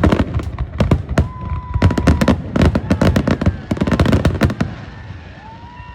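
Fireworks show barrage: a rapid string of aerial shell bursts, several bangs a second, that dies away after about four and a half seconds. A few rising and falling whistles follow near the end.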